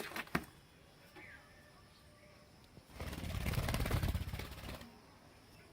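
A budgie's wings flapping close by as it flies, a rapid fluttering lasting nearly two seconds from about halfway in, with a couple of sharp clicks at the start and a faint chirp.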